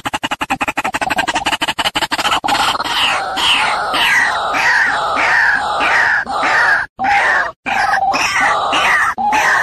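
White-breasted waterhen calling: a fast stuttering run of rapid notes for the first two seconds or so, then a loud, repeated falling call, about two a second.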